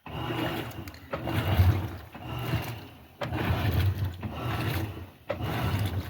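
Electrolux LTD15 top-loading washing machine running under test, its motor humming and agitator churning in swells that ease off briefly about every second or two.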